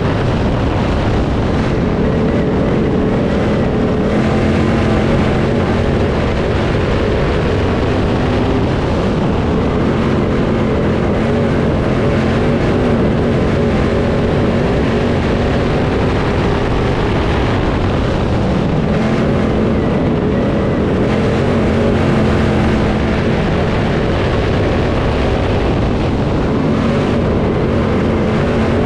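Crate late model race car's V8 engine running hard at racing speed, its pitch rising and falling every several seconds as it goes on and off the throttle around the dirt oval, with wind noise on the microphone.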